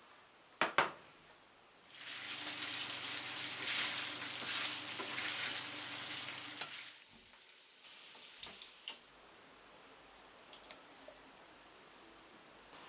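Food frying in a pan: a sizzling hiss that starts about two seconds in and dies away about halfway through. It is preceded by a couple of sharp clicks from a utensil or cookware, and a few faint clicks follow.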